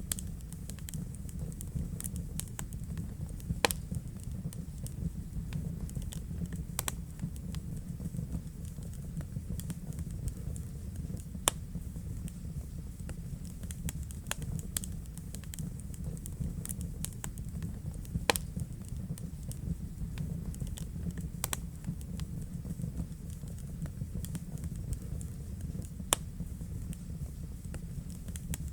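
Wood fire burning in a fireplace: a steady low rumble of flames with constant small crackles and a handful of louder, sharper pops.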